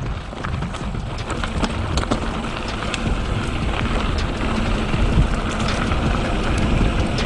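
Mountain bike rolling down a dirt trail: tyres on dirt and gravel with many small clicks and rattles from the bike, under a steady rush of wind on the microphone that grows louder as speed builds.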